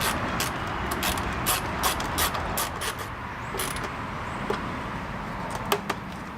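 A run of sharp mechanical clicks and ticks, quick in the first three seconds, then sparser, with two more near the end: hand tools and small metal parts at work as screws are fitted into the motorcycle's bodywork.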